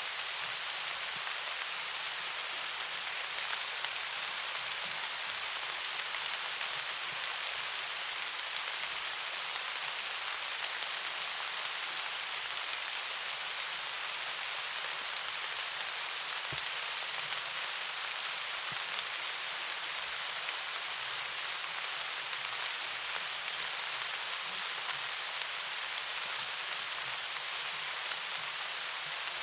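Steady rain falling, an even hiss of many drops with a few sharper drop ticks now and then.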